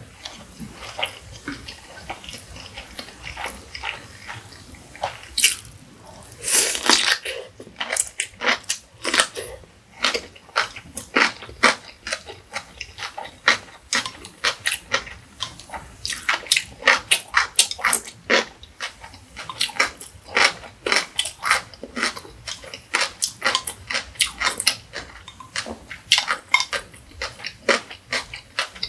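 Close-miked eating sounds: a person chewing food, with many quick wet mouth clicks and smacks, and a longer, louder burst about seven seconds in.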